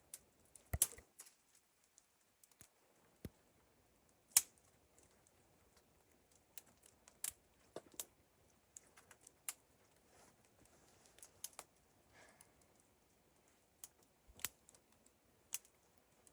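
Irregular, sharp little clicks and snaps, about fifteen spread unevenly through the stretch, with a faint hiss between them.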